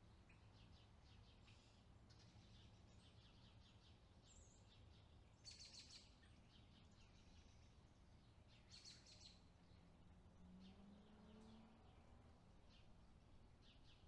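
Faint bird chirps and trills, with two louder bursts of calls about five and a half and nine seconds in, over a low steady background noise.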